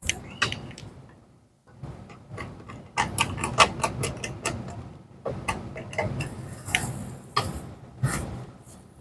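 Irregular clicks, taps and light rattles of small parts and hand tools being worked on a wooden birdhouse, with some scraping; the clicks come thickest from about three seconds in.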